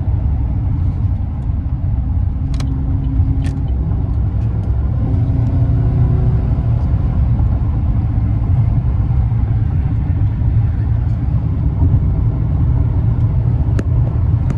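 Chevy 2500 truck's 6.0-litre Vortec V8 driving on the road: a steady low rumble with engine tones that change in pitch now and then as the automatic transmission shifts smoothly through its gears.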